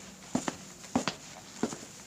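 A man's footsteps walking at a steady, even pace, about three steps in two seconds, each landing as a quick double tap.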